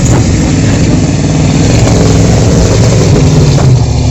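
1972 Chevy pickup truck's engine running loud and continuous, its pitch rising and falling a little as the revs change.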